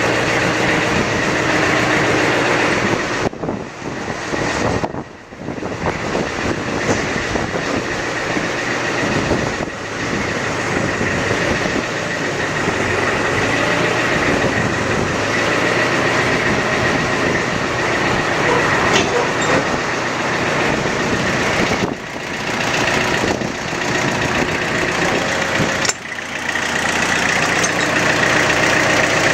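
Mitsubishi MT2201D compact tractor's diesel engine running steadily, with a few brief dips in loudness.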